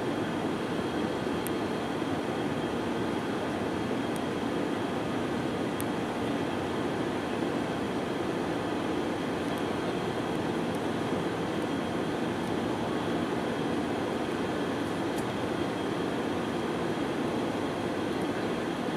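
Steady cabin rumble of an Airbus A320-214, its CFM56 engines and the airflow around the fuselage running at a constant level, with a faint steady high whine over it.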